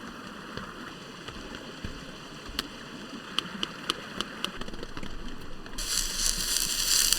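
Steady rain on the tent with a few light clicks of cookware being handled, then about six seconds in a loud sizzle starts as cocktail sausages and mushrooms go into the hot pot on a Trangia stove.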